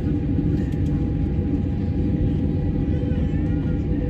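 Steady low rumble with a constant machine hum from aircraft de-icing equipment and the aircraft.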